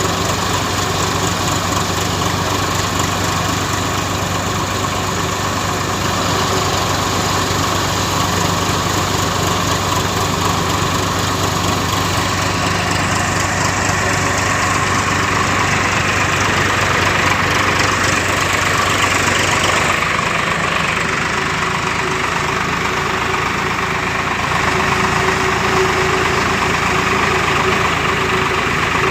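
Tractor engine running steadily while powering a cutter machine, its note shifting about two-thirds of the way through.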